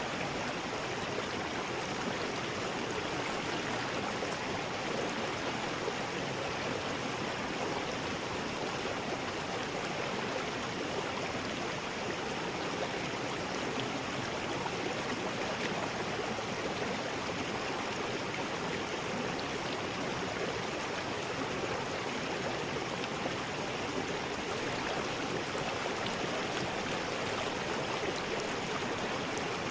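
River rapids: fast water rushing over rocks in a steady, unbroken rush.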